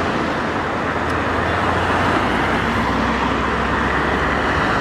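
Road traffic passing: steady engine drone and tyre noise from motor vehicles, with the low engine note shifting about two seconds in.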